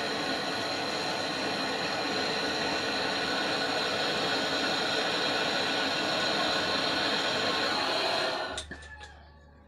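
A small electric motor and fan running steadily with a whooshing hiss and a high whine, switched off about eight seconds in, followed by a few faint clicks.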